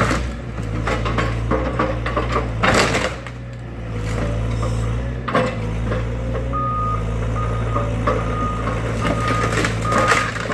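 Heavy diesel machinery running steadily while a garage is demolished, with a few loud crashes of breaking structure. About halfway through, a backup alarm starts beeping at a steady rhythm.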